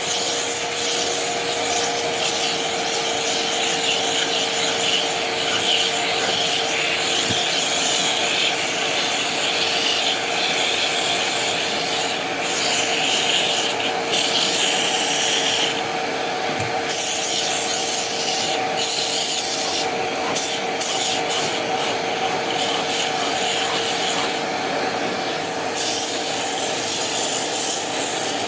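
Upholstery extraction vacuum running steadily with a constant motor hum, its nozzle rubbing as it is drawn over sofa fabric. The hiss drops out briefly several times, as the nozzle lifts or seals.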